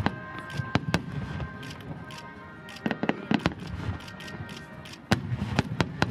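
Starmine fireworks: a rapid barrage of aerial shells bursting one after another, an irregular string of sharp bangs with rumbling between them. The loudest bangs come about a second in, at about three and a half seconds, and a cluster near the end.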